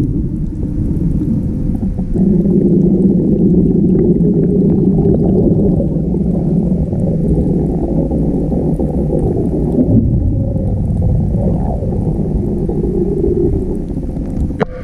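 Muffled, steady rush and rumble of water heard by a camera submerged underwater, with nothing but deep sound left; it grows louder about two seconds in and eases near the end.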